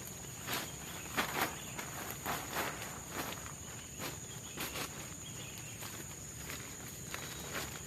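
Steady high insect drone of tropical forest, with irregular crunches and rustles from a person moving about on the forest floor, about one or two a second.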